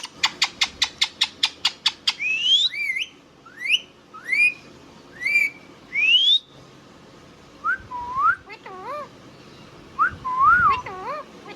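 Indian ringneck parrot calling: a rapid run of clicks, about eight a second, for the first two seconds, then a string of sharp rising whistles, then lower wavering whistles near the end.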